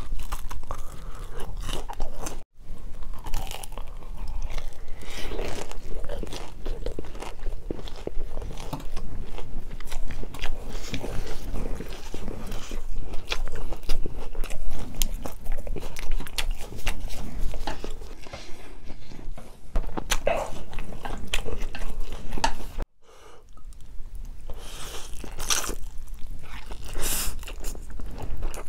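Close-miked biting, crunching and chewing of battered chicken nuggets, with the wet sounds of a full mouth. Near the end spicy stir-fried noodles are eaten. The sound breaks off briefly twice, about two and a half seconds in and again about 23 seconds in.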